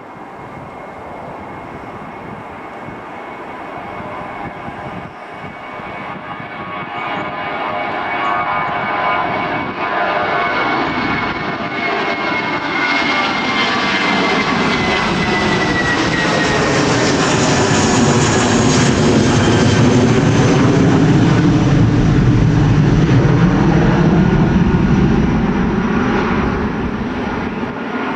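Airliner's jet engines passing close by: the sound builds steadily over the first half, with a high whine falling in pitch as the aircraft goes past, then a heavy low rumble that is loudest in the second half and eases slightly near the end.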